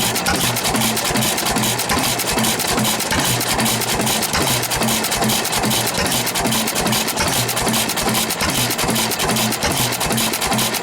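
A car engine idling, loud and close, its low note swelling and fading in a steady rhythm.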